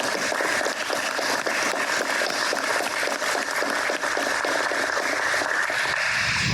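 Audience applauding: dense, steady clapping that stops abruptly at the end.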